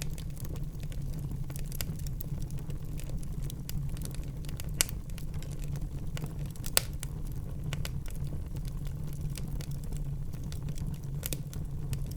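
Wood fire burning in a fireplace: a steady low rumble of the flames under frequent small crackles, with two sharper pops about five and seven seconds in.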